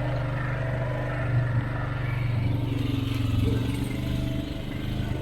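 Off-road vehicle engine running steadily while driving a woodland trail, with a brief louder bump about a second and a half in.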